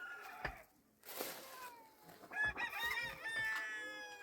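Rooster crowing: one crow tails off just after the start, and a second long crow begins about two seconds in, with a short hissing rush between them.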